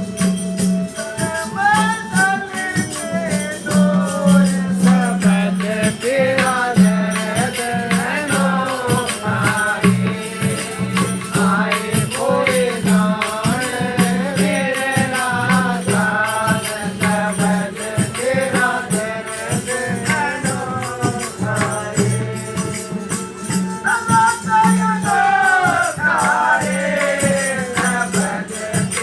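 Devotional satsang bhajan: a solo singing voice over steadily shaken jingling hand percussion, with a low sustained note that drops in and out.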